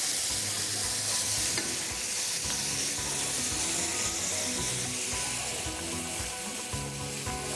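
Pieces of salmon, grouper and calamari rings sizzling steadily in hot oil in a frying pan, stirred and turned with a utensil.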